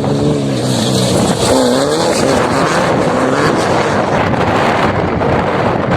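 A vehicle engine revving up and down over wind and road noise; the engine's pitch rises and falls several times in the first few seconds, then fades into the noise.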